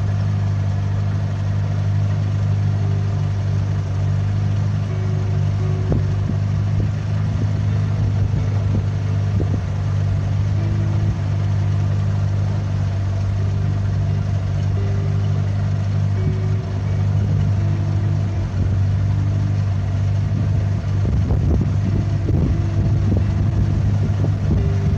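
Steady low drone of a 1960 Freeman 22 motor cruiser's inboard engine running at an even cruising speed.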